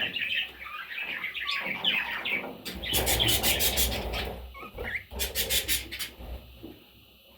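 Parrots chirping rapidly, then two loud bursts of scratchy, rustling noise, one near the middle and one a little later, before the sound falls quieter near the end.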